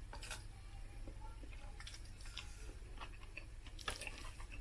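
Quiet close-up chewing and mouth sounds while eating, with faint scattered clicks and a slightly sharper one near the end, over a steady low hum.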